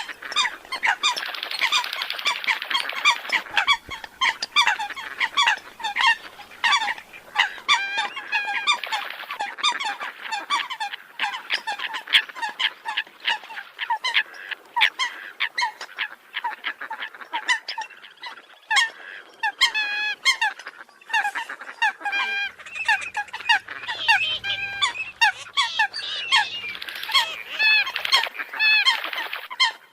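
A flock of Eurasian coots calling nonstop: many short, sharp calls overlapping, several a second.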